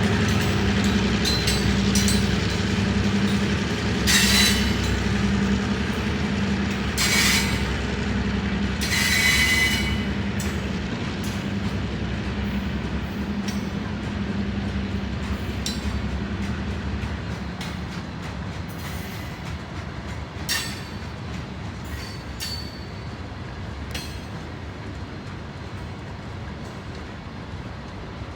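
Ballast cars of a work train rolling past, their wheels squealing in several sharp bursts and clicking over rail joints, while the low drone of the EMD MP15AC diesel locomotives working in Notch 8 fades away over the first half. The whole train sound grows steadily quieter as it moves off.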